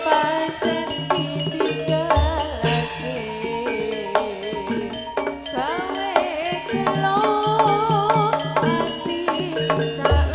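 Jaranan accompaniment music: drums and metal percussion keeping a steady beat, with a wavering melody line over it.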